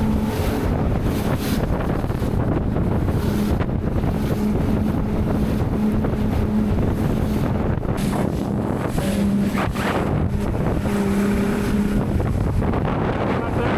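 A boat's outboard motor running under way, with a steady hum that fades in and out, and wind buffeting the microphone.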